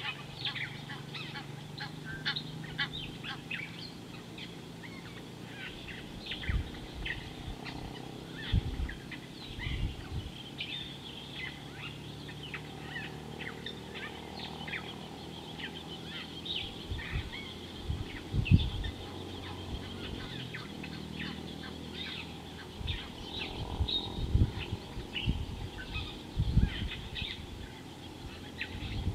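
Birds chirping: many short, high calls overlapping throughout, with a few brief low thumps scattered through the second half.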